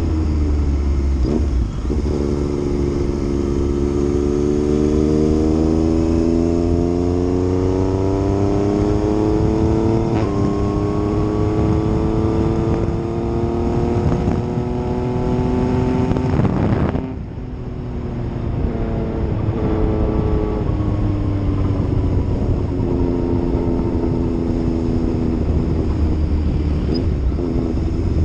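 Yamaha MT-09's three-cylinder engine pulling under load, its note rising steadily for about fifteen seconds with a small step about ten seconds in. About seventeen seconds in, the pitch and loudness drop suddenly, and the engine then runs on at a lower, steadier note.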